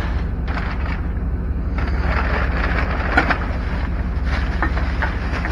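Plastic and paper packing material rustling and crinkling as it is handled, with a single sharp knock about three seconds in, over a steady low rumble.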